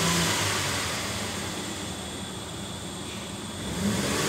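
Holden Commodore 3.6-litre V6 engine heard from inside the cabin, revved to about 3000 rpm and dropping back toward idle, then revved again near the end.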